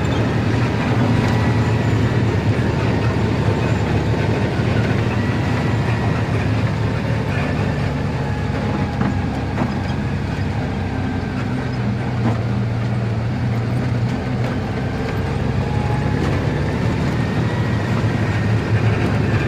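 Truck running along the road: a steady low engine drone mixed with road noise.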